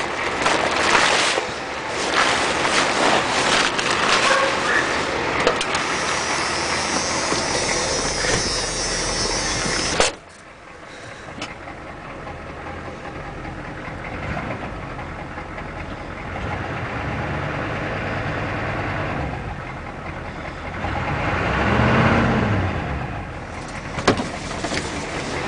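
The 6.9L IDI diesel of a 1987 Ford F-250, straight-piped because its exhaust is shot, running. The first ten seconds are louder and rougher and cut off suddenly. After that it idles more quietly, with one brief rev that rises and falls near the end.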